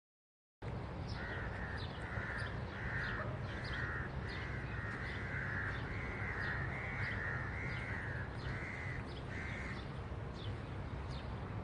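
A crow cawing about a dozen times in a row, roughly two caws a second, stopping near the end. Short high chirps of smaller birds and a steady low rumble run underneath.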